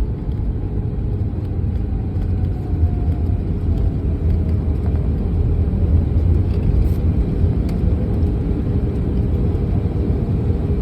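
Airliner cabin noise during landing: a steady low rumble of engines and airflow that grows a little louder about three seconds in, with a faint whine falling in pitch partway through.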